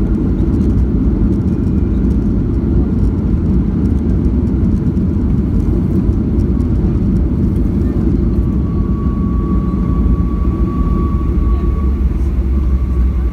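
Boeing 737-800 cabin noise: the steady, loud low rumble of its CFM56 engines and airframe, with a thin steady whine coming in about two-thirds of the way through.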